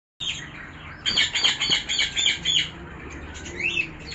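Morning birdsong: a rapid run of loud, high chirps about a second in, then a single swooping call near the end. The sound cuts in abruptly from silence at the start.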